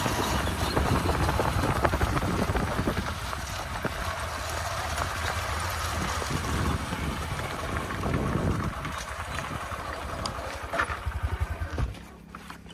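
Tractor engine running steadily, with scattered knocks and clatter over it; the engine sound drops away suddenly near the end.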